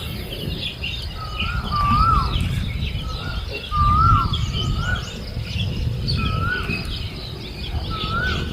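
A bird calling over and over, a short rising-then-falling two-part call about once a second, with other small birds chirping higher up and a low rumble underneath.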